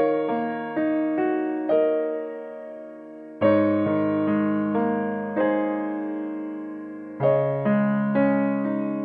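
Background music: soft piano, notes struck one after another and left to ring out, in short phrases.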